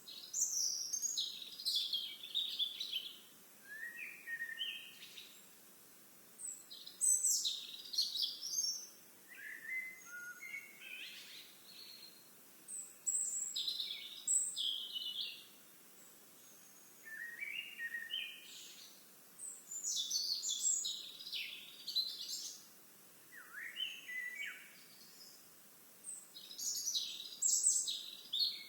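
A songbird singing complex, warbling phrases of a second or two, repeated every few seconds with short pauses between.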